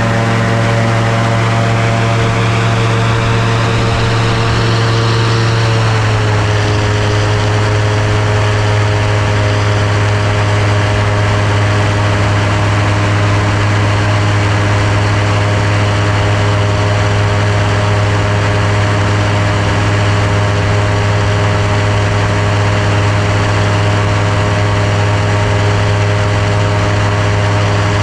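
Seaplane's engine and propeller running at high power for a takeoff from water, a steady loud drone. Over the first few seconds a hiss rises in pitch; about six seconds in the drone drops slightly in pitch and then holds steady.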